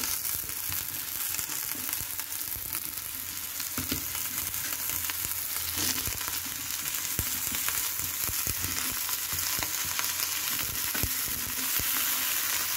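Cut brinjal (eggplant) pieces sizzling as they fry with onions in hot sesame oil: a steady hiss with scattered light clicks.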